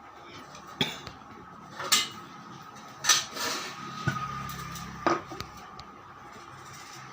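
Metal clinks and knocks, five of them about a second apart, over a faint steady hum: tools and metal parts being handled while a washing machine motor is worked on.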